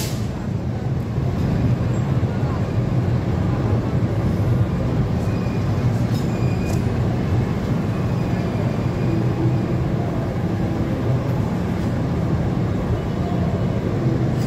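Argo Cheribon passenger coaches rolling slowly past along the platform as the train pulls in, a steady low rumble of wheels on the rails.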